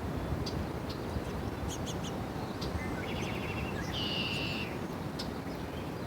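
Small birds chirping in short high notes, with one rapid buzzy trill starting about three seconds in, over a steady low rumble.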